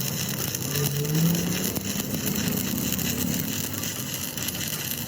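Steady mechanical noise with a low hum that rises in pitch about a second in.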